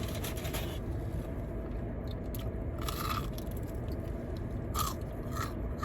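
Close-up crunching and chewing of Popeyes fried chicken, in irregular bites: a cluster at the start, more about two to three seconds in, and a couple near the end.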